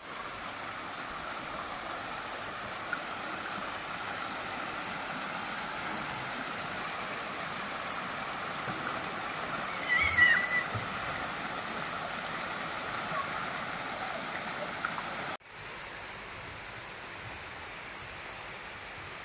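Steady rush of running water, like a stream or waterfall. A brief high chirp stands out about ten seconds in, and the sound cuts off and resumes slightly quieter about three-quarters of the way through.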